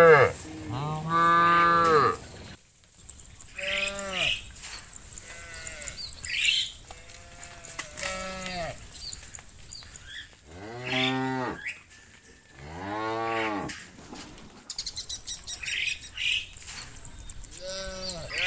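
Several cows mooing one after another: about eight drawn-out moos at different pitches, each rising and falling, with pauses between. A brief rapid high-pitched chatter comes about fifteen seconds in.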